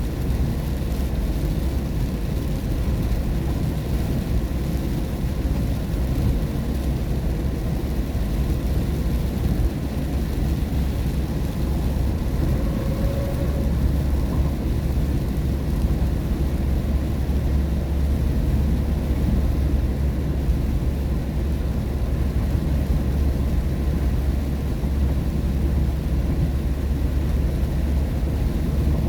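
Steady low rumble of a car's tyres and engine on a wet road, heard from inside the cabin while driving in the rain.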